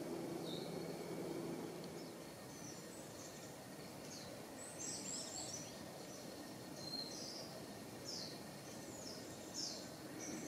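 Small birds chirping, short high calls that sweep downward, coming in clusters over a steady outdoor background hiss. A faint low hum fades out about a second and a half in.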